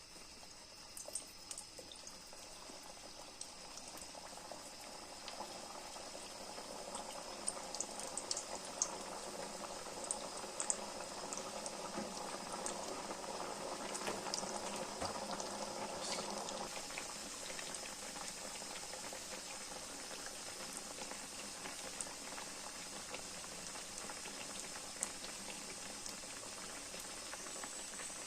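Cooking liquid bubbling in a pan on the stove, a steady bubbling hiss with scattered sharp crackles, busiest in the first half.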